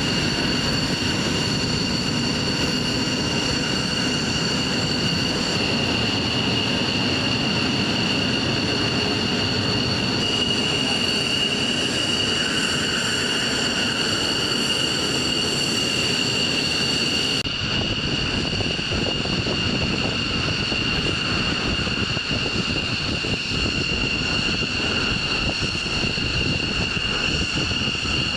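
Running machinery: a steady high-pitched whine made of several tones over a constant rumbling noise. The sound changes slightly about two-thirds of the way through.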